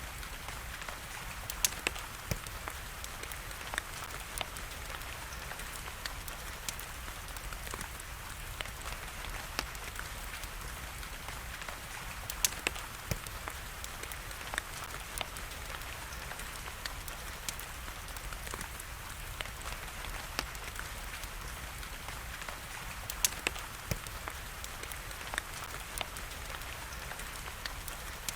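Fire crackling with steady rain. The rain is an even hiss throughout, and the fire's sharp pops and crackles are scattered over it, a few much louder ones about two seconds in, near the middle and a few seconds before the end.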